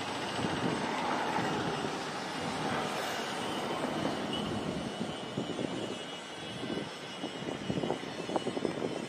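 Distant container train crossing a long rail bridge: a steady, even rumble of the electric locomotive and wagons rolling. It turns uneven with short knocks in the last few seconds.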